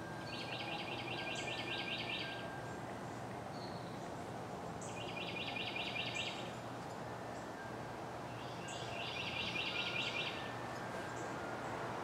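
A songbird singing a fast trill three times, each about two seconds long and a few seconds apart, with short high chip notes between, over steady background noise.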